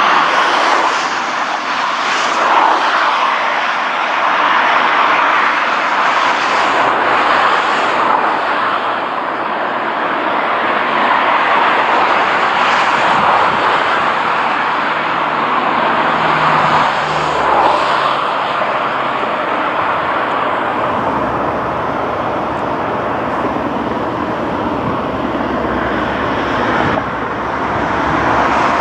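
Diesel shunting locomotive (MaK 6476) running steadily, a loud, even engine noise. About twenty seconds in the sound changes, with more low rumble.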